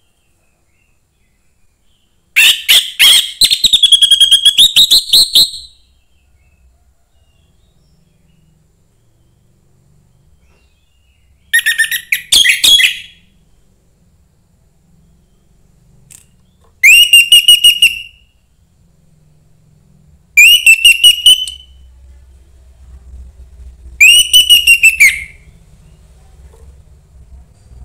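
Young wild orange-headed thrush singing: five loud, separate phrases of rapid whistled notes with pauses between them. The first phrase is the longest, about three seconds.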